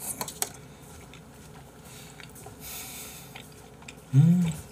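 A man chewing a mouthful of yukhoe (raw beef tartare) with wet, squishy mouth sounds, a few light clicks near the start, then a short hummed "mmm" that rises and falls in pitch about four seconds in, the loudest sound.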